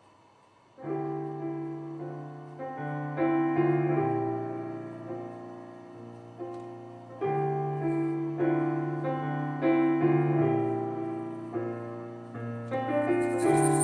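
Piano starting about a second in, playing a slow intro of sustained chords in rising-and-fading phrases. Near the end a high, fast shimmering rattle joins in.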